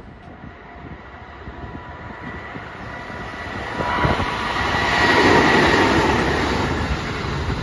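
Sanyo Electric Railway 3000-series electric train approaching and passing at speed. The rumble of its wheels on the rails builds to a peak about five seconds in and then eases, with a faint high steady tone over it.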